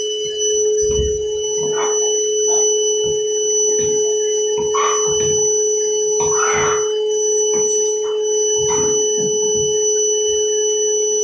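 Vacuum cleaner running with a steady whine, its nozzle sucking up and scraping old dirt off a bare subfloor in irregular noisy bursts.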